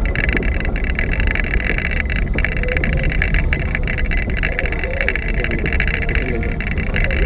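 Car engine running and the car moving, heard as a steady low rumble with a hiss over it, from inside the cabin during a driving lesson.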